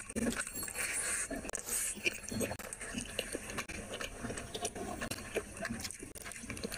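Close-up eating sounds of rice and curry eaten by hand: irregular wet chewing and smacking clicks, with a brief hiss about a second in.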